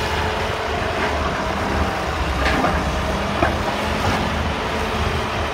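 Hydraulic excavator's diesel engine running steadily under work, with a couple of short knocks about halfway through.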